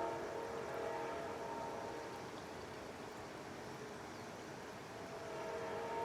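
Amtrak diesel locomotive's multi-chime horn sounding a steady chord that fades out about a second in and sounds again near the end, with the passing train's rumble between the blasts.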